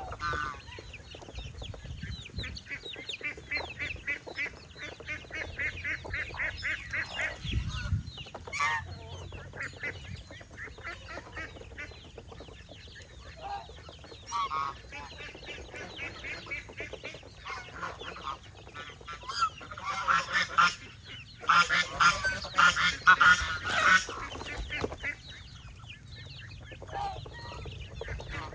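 Farmyard poultry calling: chickens clucking with geese honking among them, in runs of quick repeated calls, the loudest run about twenty seconds in.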